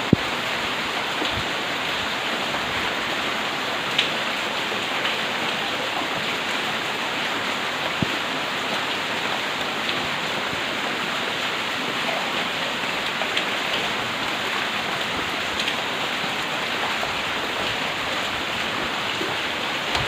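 Heavy rain falling in a steady, dense hiss, with a few sharp taps of drops striking close by, the loudest right at the start.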